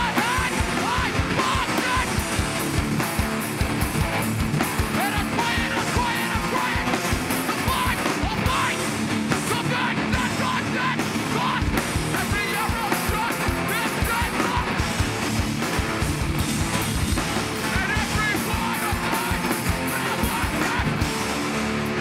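Hardcore punk band playing live: loud distorted guitars and fast, pounding drums under shouted vocals.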